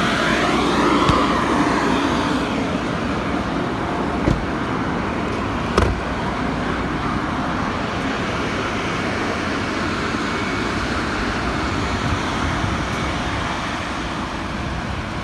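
Steady road and engine noise heard from inside a moving car, with two short sharp knocks about four and six seconds in.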